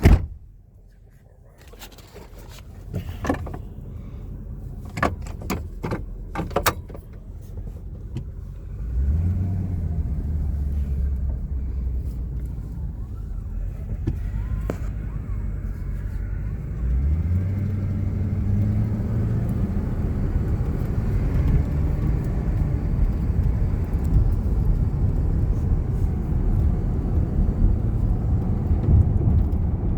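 Ford F-250 Super Duty's 5.4-litre V8 heard from inside the cab. A sharp knock at the start and a few clicks over the idle, then the truck pulls away with the engine pitch rising about 9 s in, rising again after a shift at about 17 s, and settling into steady cruising engine and road noise.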